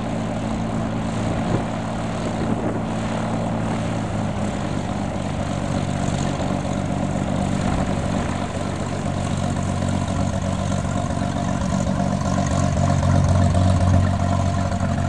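Propeller engine of a small private plane running steadily, its drone growing louder toward the end.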